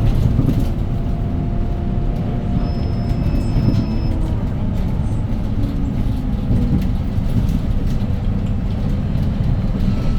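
Hyundai Green City city bus running on its C6GB G240 CNG engine, heard from inside the cabin as a steady low rumble. The engine note slowly falls over the first several seconds as the bus eases off.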